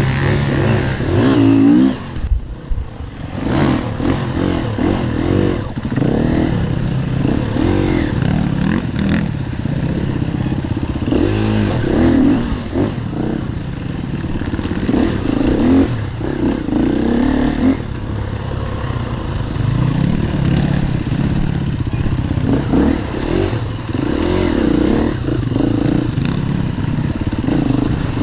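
Enduro dirt bike engine revving up and down over and over as it is ridden off-road, with a brief drop in the engine sound about two seconds in.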